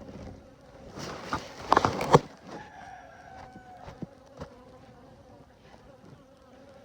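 Honeybees buzzing steadily around an open hive. About a second in comes a loud burst of rustling and knocking close to the microphone, followed by a couple of sharp clicks around four seconds.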